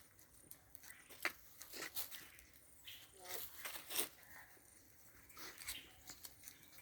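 Faint, scattered crackling and rustling, with a few sharp clicks among it.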